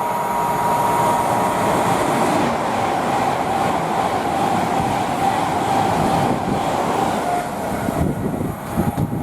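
Avanti West Coast Class 390 Pendolino electric train running past the platform: a steady loud rush of wheels and running gear with a whine that slowly drops in pitch, easing off near the end.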